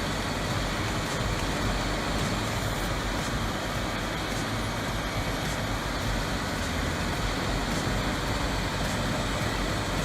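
Vermeer HG6000 horizontal grinder running steadily, its large engine giving a continuous, even machine noise.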